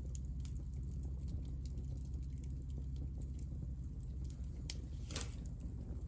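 Hinoki cypress offcuts burning, crackling with frequent small ticks and one louder pop about five seconds in, over a steady low rumble.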